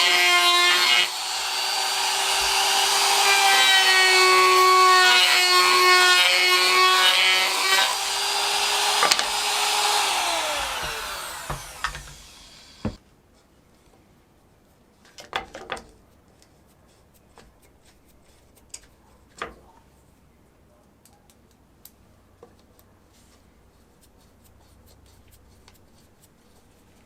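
An electric power tool runs with a high steady whine while cutting wood. About ten seconds in it is switched off, and its pitch falls as it spins down. After that come a few light knocks of handling the workpiece.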